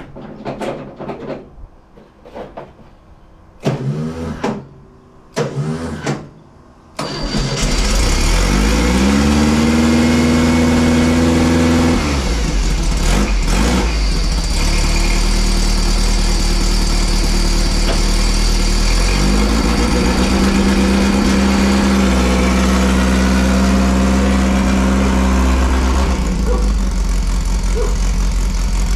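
Dune buggy engine starting about a quarter of the way in after a couple of short, sudden sounds, then running with its revs rising and holding twice before it settles to a steady idle.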